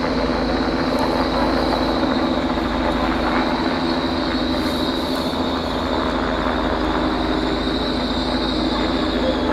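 A Class 800 Azuma train running past at close range: a steady rumble of running noise with a high whine held throughout, the whine dipping slightly in pitch near the end.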